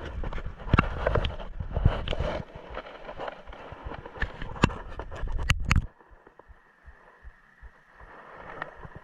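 Handling noise on the camera's microphone: irregular knocks, taps and rubbing that stop suddenly about six seconds in, leaving a faint quiet background.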